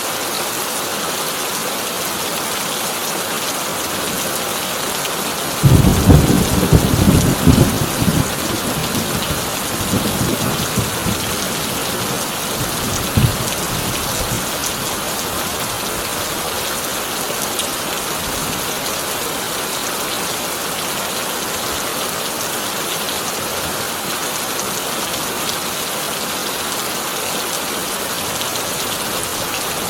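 Heavy rain drumming steadily on a corrugated tin roof. About six seconds in a loud clap of thunder breaks, crackling and rumbling for several seconds with a sharp crack near the end before it fades back under the rain.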